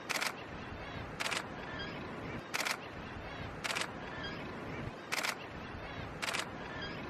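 DSLR shutter (Canon 7D Mark II) firing in six short bursts about a second or so apart, rapid continuous shooting of birds in flight.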